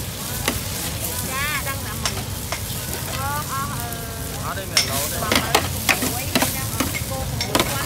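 Food frying with a steady sizzle, with quick sharp clatters of stirring that come thicker in the second half.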